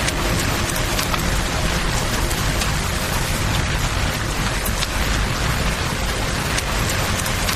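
Steady rain falling, blended with the rush of a flowing river, a dense even hiss with a low rumble beneath it. A few sharp clicks stand out now and then, from fire crackles or heavy drops.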